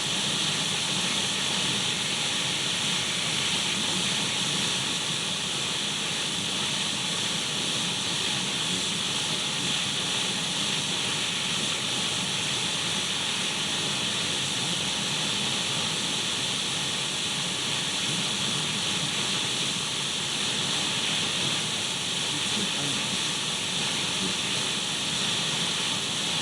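Radio static: the steady, bright hiss of an untuned radio, even and unchanging throughout.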